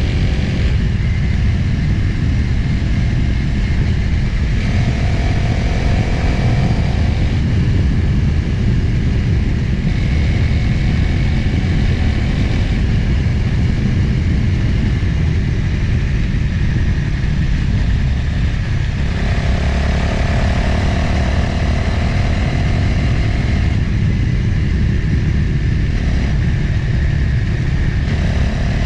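Motorcycle engine running under way, with heavy wind rumble on the microphone. A clearer, steadier engine tone stands out for a few seconds about five seconds in, again for about five seconds from nineteen seconds, and near the end.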